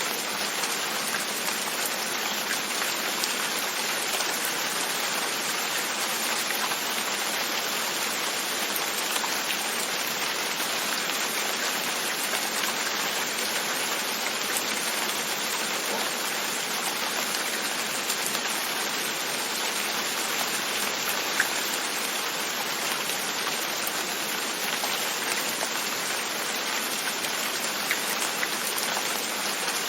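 Steady rain falling, with drops pattering on a window; one drop ticks a little sharper about two-thirds of the way through.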